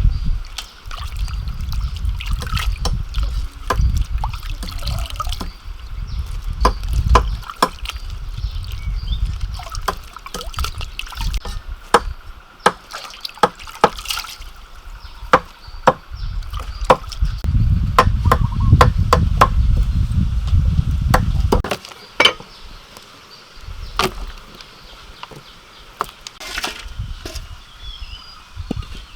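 Food being prepared with water: water trickling and sloshing as ingredients are washed, with many sharp knocks and clicks of a knife or utensils. There are two long stretches of low rumble, one near the start and one past the middle.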